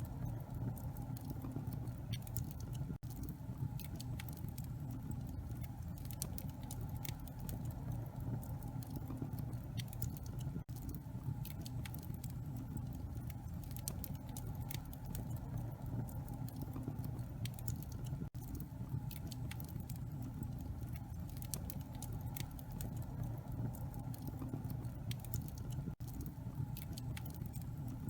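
Wood fire burning in a fireplace: a steady low roar with irregular sharp crackles and pops from the burning logs. The sound drops out for an instant about every seven or eight seconds.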